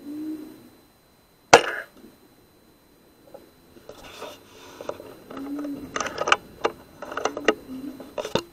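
Weihrauch HW100 pre-charged pneumatic air rifle firing once about a second and a half in, a single sharp crack. Then a run of clicks and rustling as the rifle is handled and moved.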